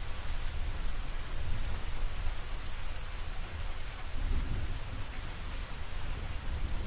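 Steady rain: an even hiss with a deep low rumble underneath and a few sharp drop ticks.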